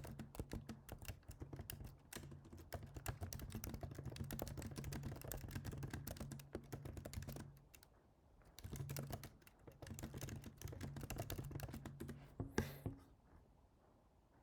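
Fast typing on a computer keyboard, rapid key clicks in two runs with a short pause about halfway, ending with one louder click near the end.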